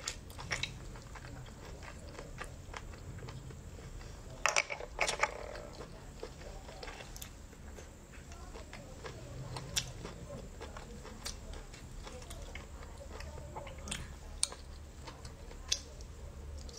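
Eating sounds from a person eating abalone: chewing, with scattered sharp wet mouth clicks. A small cluster of louder clicks comes about four to five seconds in.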